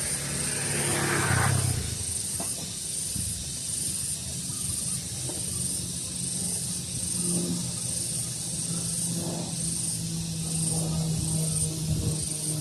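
Daytime outdoor ambience: a steady hiss with a high, evenly pulsing insect chirp throughout. A louder sweep comes about a second in, and a low steady hum grows from the middle on.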